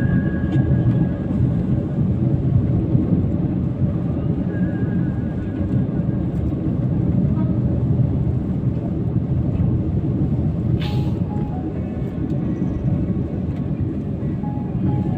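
Road and engine noise inside a moving car's cabin, a steady low rumble, with one short sharp click about eleven seconds in.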